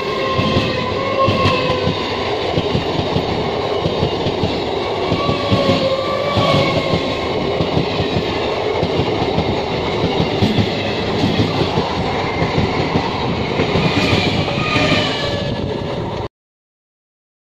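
An electric multiple unit (EMU) suburban local train passes close by at speed, its wheels rumbling and clattering on the rails, with faint high tones over the noise. The sound cuts off suddenly near the end.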